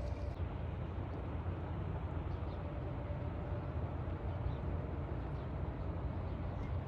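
Steady low outdoor background rumble, with a faint thin tone about halfway through.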